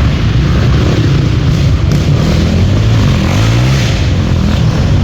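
Dirt bike engine running loudly, its pitch dipping and rising again about three to four seconds in as the throttle changes.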